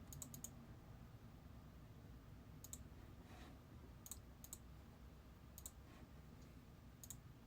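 Near silence broken by faint, sharp little clicks: a quick run of about four at the very start, then single or paired clicks every second or so.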